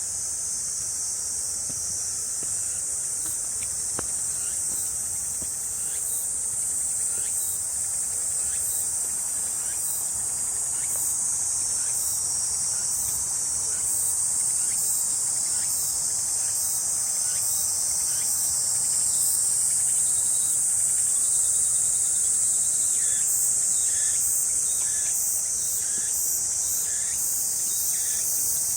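Cicadas droning in a dense, steady high-pitched chorus, growing a little louder midway.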